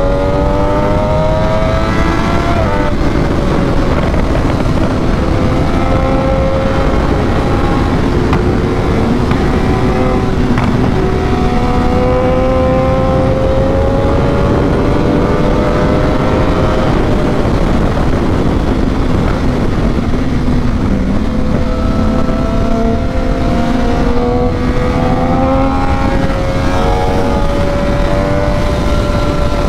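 Triumph Daytona 675R's three-cylinder engine under hard acceleration, heard from the bike at speed with heavy wind noise on the microphone. Its pitch climbs through a gear, drops back at a shift about three seconds in and again past the middle, then climbs again toward the end.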